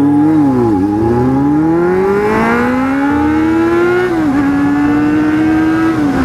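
Inline-four sport motorcycle engine under way. The pitch dips briefly near the start, climbs steadily for about three seconds as it accelerates, drops at a gear change about four seconds in, then holds steady.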